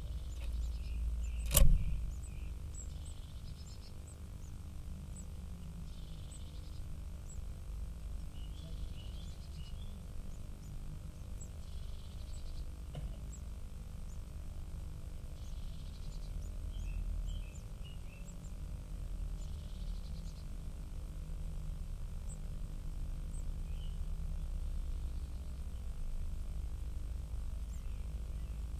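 Faint, short, high bird calls repeating every few seconds over a steady low rumble, with one sharp knock about a second and a half in.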